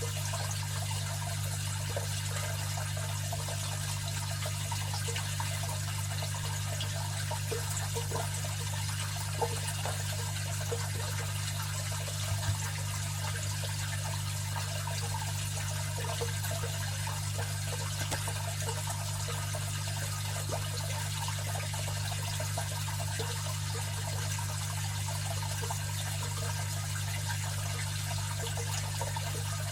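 Aquarium filter running steadily: a constant low motor hum under a continuous trickle and bubbling of water.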